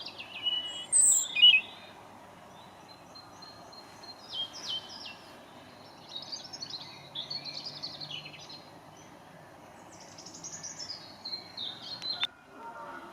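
Wild songbirds singing and calling in a run of short, high chirping and trilling phrases over a steady background hiss; the birdsong cuts off suddenly near the end.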